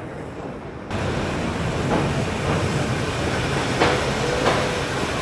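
Vintage New York subway train running on the track, with a steady rumble that jumps in level about a second in. The wheels click over rail joints several times and squeal briefly twice near the end.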